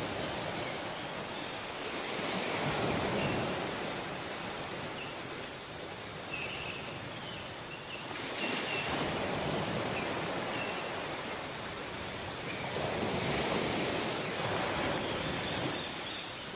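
Sea waves washing onto a tropical beach: a constant wash with three surges, each a few seconds long, coming about five to six seconds apart.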